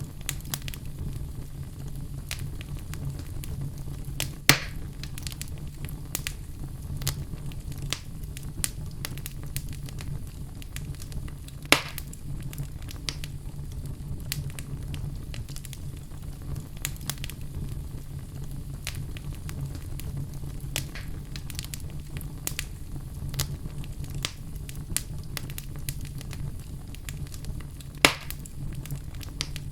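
Wood fire burning in a fireplace: a steady low rumble of flames with frequent small crackles, and three loud pops, about four seconds in, near twelve seconds and near the end.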